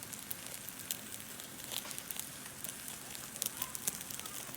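Meat sizzling on a camp grill, a steady hiss with many irregular crackles and pops.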